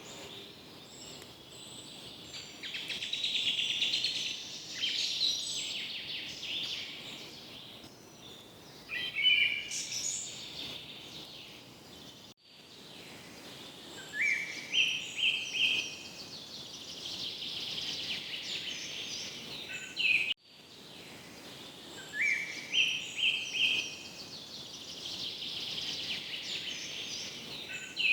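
Tropical forest ambience: a dense chorus of birdsong and insects. One bird's stepped, rising phrase comes back three times. The whole chorus drops out for an instant twice.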